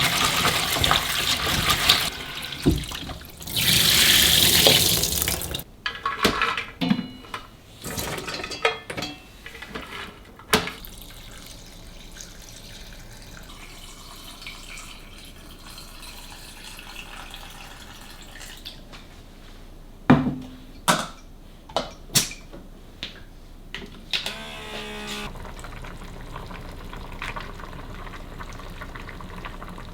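Kitchen tap running into the sink in two spells during the first few seconds, then scattered clicks and knocks of things being handled. A brief rapid rattle comes about two-thirds of the way in.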